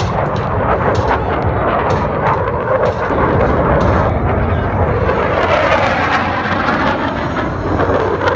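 Military jet aircraft flying low past the crowd, its roar swelling and sweeping in pitch as it passes, over a run of sharp bangs from pyrotechnic blasts and simulated gunfire in the first few seconds.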